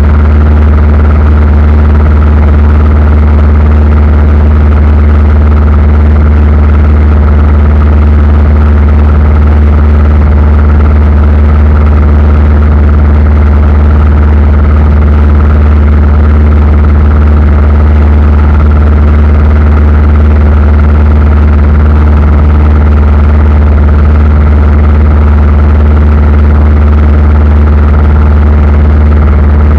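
Aircraft engine drone heard from inside the cabin in flight: a loud, steady, unchanging hum with a strong low tone and fainter fixed tones above it.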